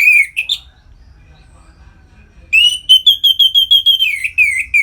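Orange-headed thrush singing in full song: a short loud whistled phrase, a pause of about two seconds, then a fast run of clear notes at one pitch, about seven a second, that turns into slurred falling notes near the end.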